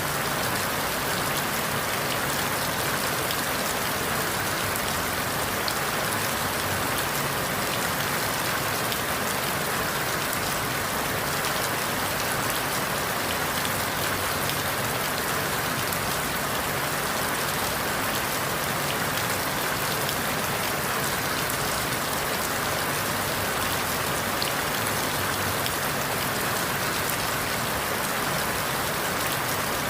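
Steady rain falling on forest leaves, an even hiss with fine drop patter and no change in strength.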